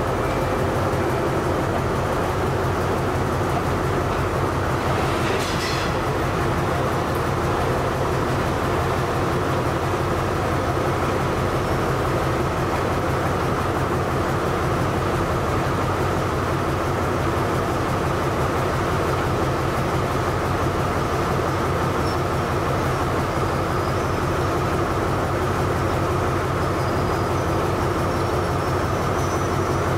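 Diesel-hauled passenger train at a station: a steady engine hum over the noise of the cars. A brief hiss comes about five seconds in, and faint high-pitched squeals are heard near the end.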